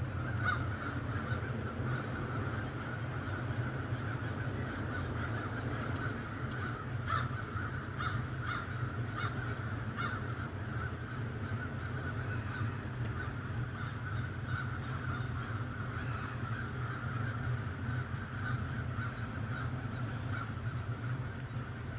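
A flock of birds calling continuously, a chattering that never stops, with a few sharper calls around seven to ten seconds in, over a steady low hum.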